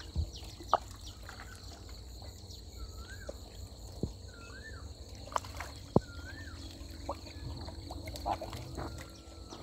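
Outdoor ambience at a drained, muddy pond: a bird's whistled note rises and falls three times over a steady high insect drone. Scattered small clicks and knocks sound now and then.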